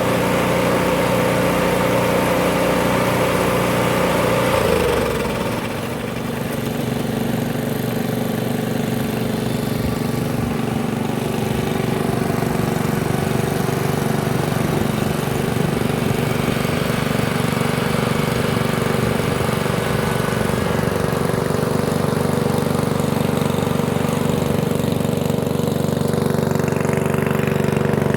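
An engine running steadily; its speed drops about five seconds in, then it settles and runs evenly.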